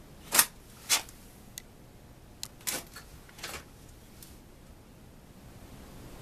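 A handful of short, sharp clicks and taps at irregular intervals, the two loudest in the first second, from small hard objects being handled.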